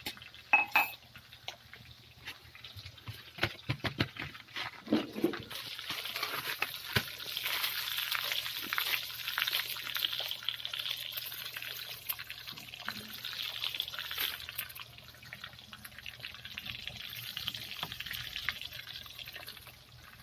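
Meat frying in hot oil in a wok: a steady sizzle full of fine spitting crackles, swelling after the first few seconds and easing near the end, with a few sharp clicks near the start.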